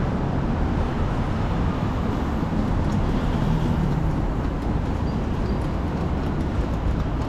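Steady low rumble and running noise of a train in motion.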